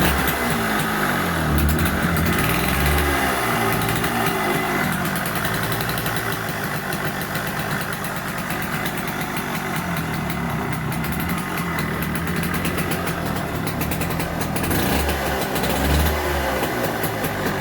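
Zündapp KS 80's 80 cc water-cooled two-stroke engine running freshly restored, its revs rising and falling over the first few seconds and blipped again near the end. The owner says the silencer is leaking at the front.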